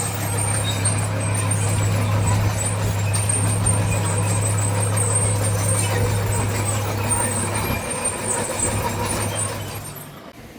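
Heavy construction machine's diesel engine running steadily at an even speed, with a low hum that fades away near the end.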